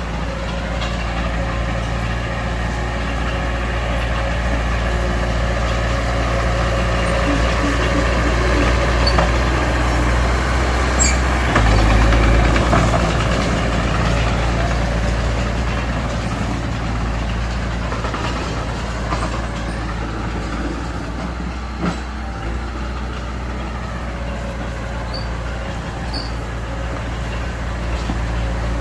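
Heavy diesel engine of earthmoving machinery running steadily, briefly louder about twelve seconds in.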